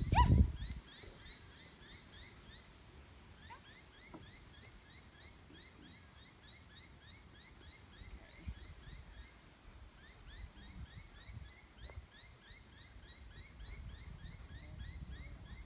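Birds chirping steadily in the background, a quick, even run of short, high chirps. A brief low rumble at the very start is the loudest sound, with fainter low rumbling near the end.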